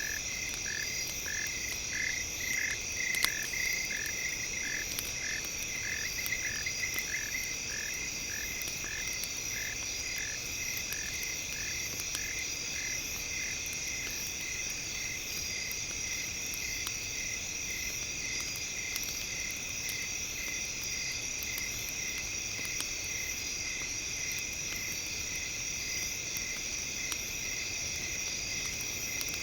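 Campfire crackling with scattered pops, under a steady high-pitched layer of tones. For the first eight seconds or so, a rhythmic chirping pulse repeats about two and a half times a second, then fades out.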